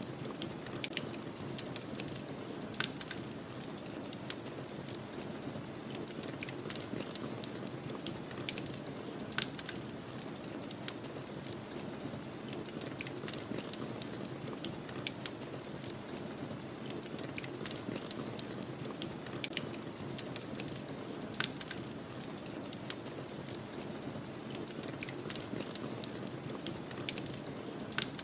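Wood fire crackling, with irregular sharp pops and snaps several times a second, over a steady low rush of snowstorm wind.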